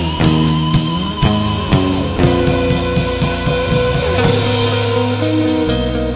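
Instrumental post-rock band music: electric guitars playing sustained, ringing chords over a drum kit, with drum hits about every half second in the first two seconds before the guitars hold longer notes.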